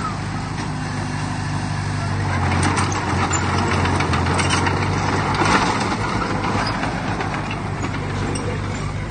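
Diesel engine of heavy earthmoving machinery running steadily, with scattered clanks and rattles over the hum.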